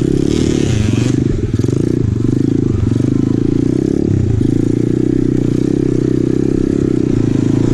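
2020 Apollo RFZ 125cc pit bike's single-cylinder four-stroke engine running under throttle while climbing a rough trail. The engine note dips briefly a few times, around one and a half, three and four and a half seconds in, as the throttle eases and comes back on.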